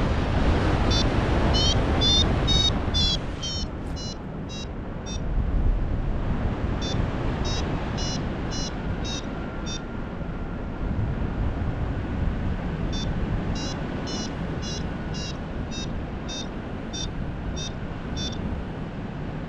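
Paraglider's variometer beeping in quick runs of short high beeps, about three a second, in three spells: the vario's tone for climbing in lift. Wind rushes over the microphone throughout.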